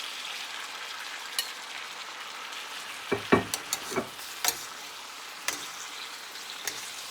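Sliced peppers and onions sizzling in hot vegetable oil in a frying pan, a steady hiss, with a run of sharp knocks against the pan, loudest about three seconds in, as chicken goes in and is stirred.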